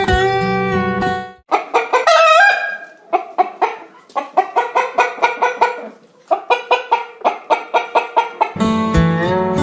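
Chickens clucking in quick runs of about four clucks a second, with one drawn-out, rising call about two seconds in. Acoustic guitar music plays for the first second or so, then drops out, and comes back near the end.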